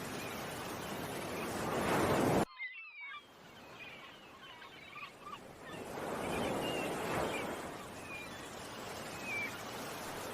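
Ocean waves washing in with a surging rush, while small birds chirp over them. The surf cuts off abruptly about two and a half seconds in, leaving mostly bird chirps, then a second wave swells up around six to seven seconds.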